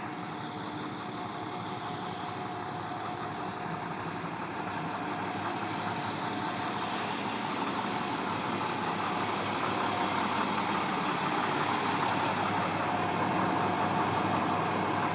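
International IC CE school bus's MaxxForce DT diesel engine idling steadily, growing gradually louder.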